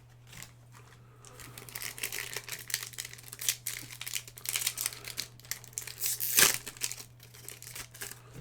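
Foil Pokémon booster pack wrapper crinkling and being torn open, with one loud crackle about six seconds in.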